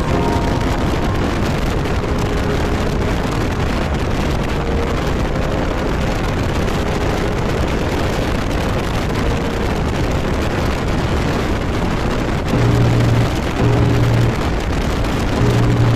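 Steady rush of wind and road noise from a motorcycle riding at highway speed, with faint background music over it; about twelve and a half seconds in, the music adds a few pulsed deep bass notes.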